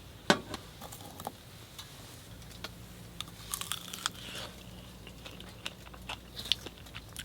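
Scattered small clicks and crunches, a few a second at irregular intervals.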